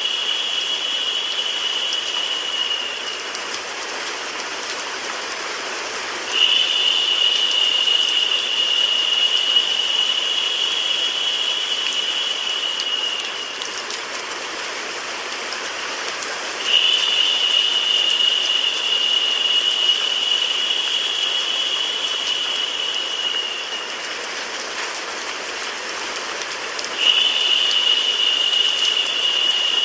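Rain and white noise as a steady hiss, with a high, steady tone that comes in for about seven seconds and drops out for about three to four, again and again, making it louder while it sounds.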